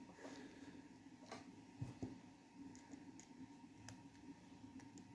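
Near silence with a few faint clicks of small parts being handled, and one soft knock just under two seconds in.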